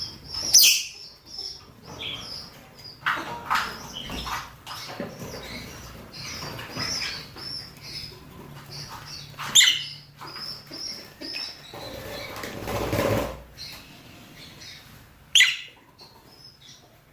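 Rosy-faced and Fischer's lovebirds giving mating calls: strings of rapid high chirps, cut by three loud sharp shrieks, about a second in, near the middle and near the end. A burst of rustling noise comes about two-thirds of the way through.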